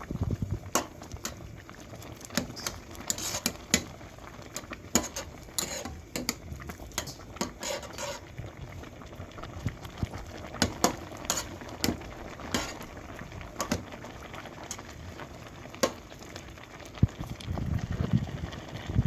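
Spaghetti being stirred in a pot of boiling water on the stove: a metal utensil clicks and clinks against the pot again and again over the bubbling of the water.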